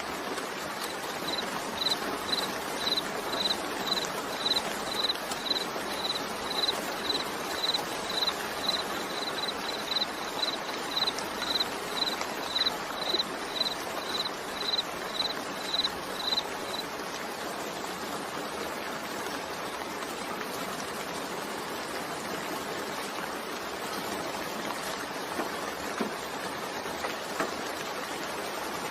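Steady rainfall, an even hiss of falling water. For the first half a high, short chirp repeats evenly about twice a second, then stops about two-thirds of the way through.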